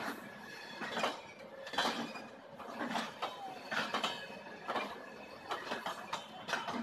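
Passenger coaches rolling past, their wheels clacking over rail joints roughly once a second, with creaking and rattling from the running gear.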